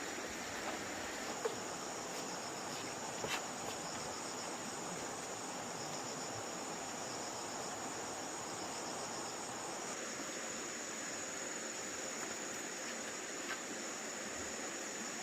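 Insect chorus in the forest: a steady, high-pitched trilling that carries on without a break, with a faint click or two.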